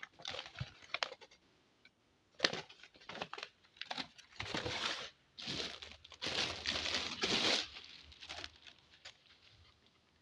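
Packaging being handled during an unboxing: a few light clicks, then bouts of crinkling and rustling as the electric kettle is unwrapped.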